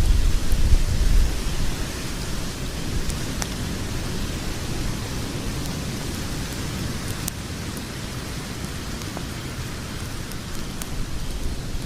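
Wood logs burning in a fireplace: a steady rushing hiss of flames over a low rumble, with a few sharp crackles and pops from the logs. The rumble is louder for the first second or so.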